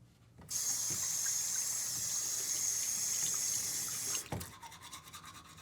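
Water running from a tap into a sink: it is turned on about half a second in, runs steadily, and is shut off about four seconds in, followed by a light knock.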